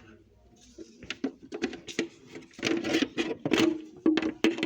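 Quiet for about a second, then a quick, irregular run of clicks, knocks and rattles that keeps on, with a low hum pulsing in and out in the middle.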